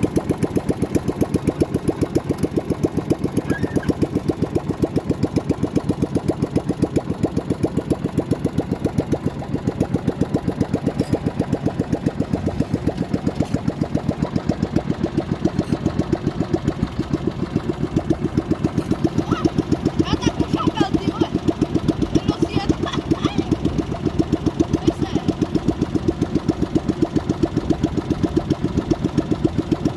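A boat engine running steadily with a rapid, even beat.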